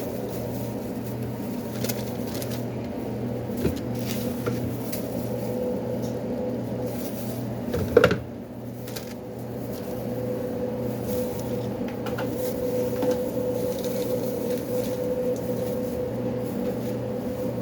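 Steady machine hum of sandwich-shop kitchen equipment, with a few light clicks of handling and one sharp knock about eight seconds in.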